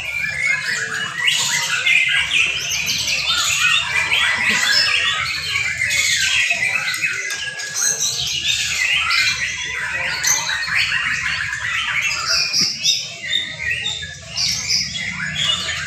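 Young white-rumped shamas singing together in a bird-song contest: a dense, unbroken chorus of overlapping whistles, chirps and harsh calls.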